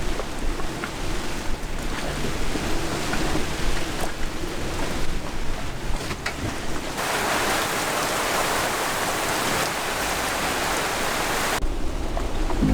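Wind, rain and sea noise around a sailboat riding out rough weather at anchor. A louder, even rush starts about seven seconds in and cuts off suddenly near the end.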